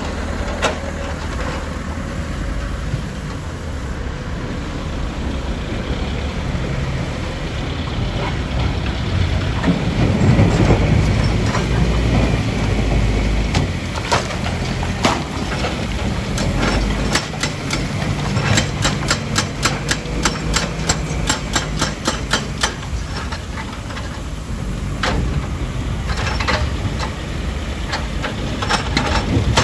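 Heavy diesel machinery running steadily at a rock crusher, with rock and steel clanking: scattered sharp knocks, then a fast run of several knocks a second in the middle, and more knocks near the end.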